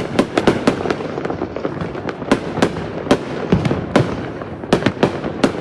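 Fireworks going off: a rapid, irregular string of sharp bangs, several a second, over a continuous crackle.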